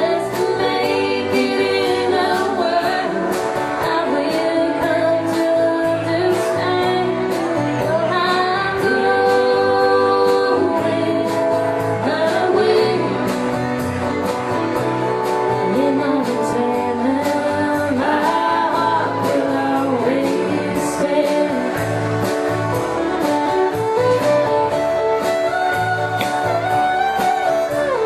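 Country band playing a song: a woman sings the lead over guitar, with a steady drum beat.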